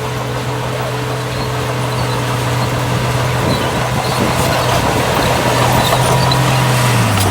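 Heavy diesel earthmoving machine engine running steadily with a deep, even drone that grows slowly louder; its pitch dips briefly near the end.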